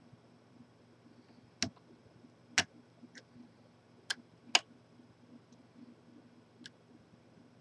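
Lock picking a large Corbin padlock: about six sharp, irregular metallic clicks from the pick and tension wrench working inside the lock, two of them louder than the rest.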